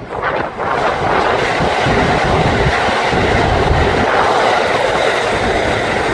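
Kintetsu Hinotori limited express electric train passing close by: steady, loud running noise of wheels on rail, with the clickety-clack of the wheels over the rail joints.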